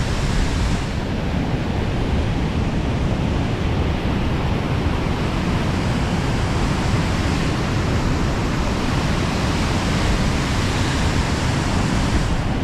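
High Force waterfall on the River Tees: a steady roar of water rushing down through the first spout and over the rocks, heard from close above.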